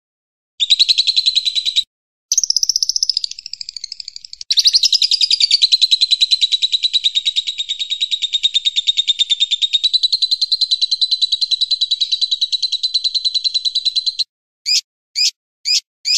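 Recorded songbird song, a very fast trill of repeated high notes that runs almost unbroken for about ten seconds after two shorter bursts, then gives way to single sharp chirps about two a second near the end.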